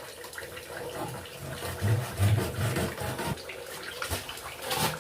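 Water running and splashing as food is washed by hand, with a few heavier low sloshes about two seconds in and a brief louder splash near the end.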